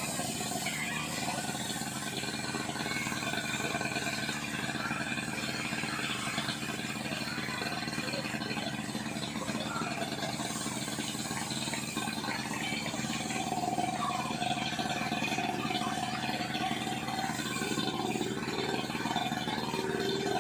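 Portable fire pump engine running steadily.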